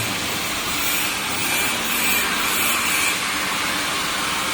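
Steady whirring machine noise from industrial large-format 3D printers and their fans running, even and unbroken, with a faint steady tone in the middle.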